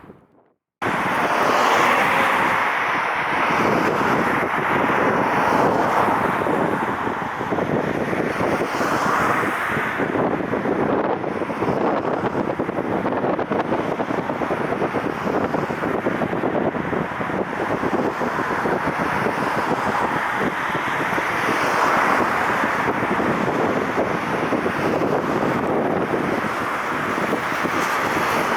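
Strong gusty wind rushing over an unshielded microphone, mixed with the steady jet noise of a Boeing 787 on a circling approach; the sound cuts in abruptly about a second in.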